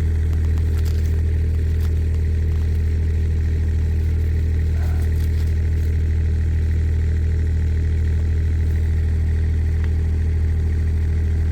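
Kubota mini excavator's diesel engine idling steadily, a low even hum that does not change, with a few faint clicks over it.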